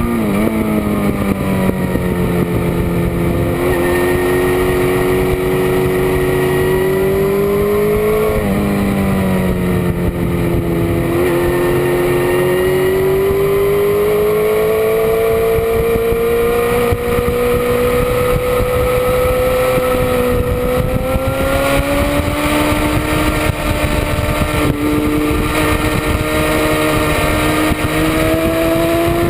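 Motorcycle engine running hard on a race track, heard from a camera mounted on the bike's rear. Its pitch falls at the start, climbs, drops sharply about eight seconds in, then climbs slowly, dips briefly and rises again as the rider brakes, shifts and accelerates.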